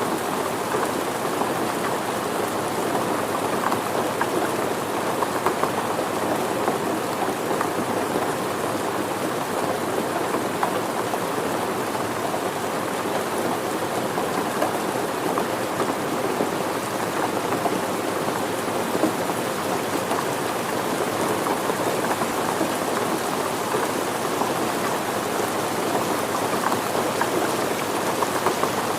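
Steady rain falling on surfaces: an even, continuous hiss with no distinct drops or breaks.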